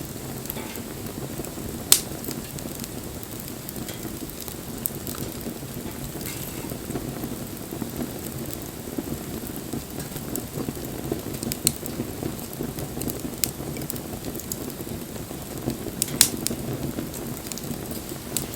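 Wood fire burning with a steady low rush, crackling and popping at irregular moments, with two sharp loud pops about two seconds in and near the end.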